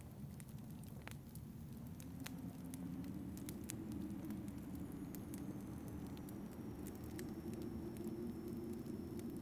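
Wood fire crackling with scattered sharp pops, over a low howling wind that swells about two seconds in.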